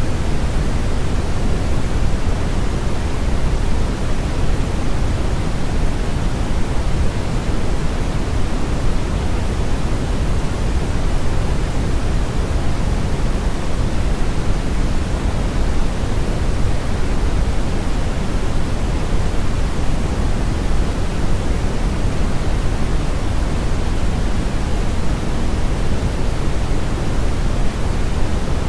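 Steady brown noise: an even, unchanging rush with its energy weighted heavily toward the bass and the highs rolled off, like a deep river or strong wind.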